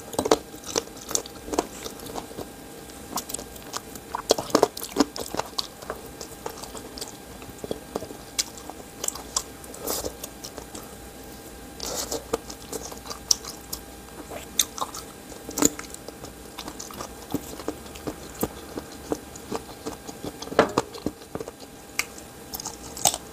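A person chewing and biting on samgyetang chicken close to the microphone, with many short clicks and small crunches scattered throughout.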